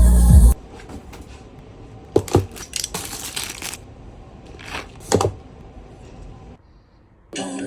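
Music cuts off half a second in. Then come a few scattered clicks and knocks and a short rustle, as of objects being handled.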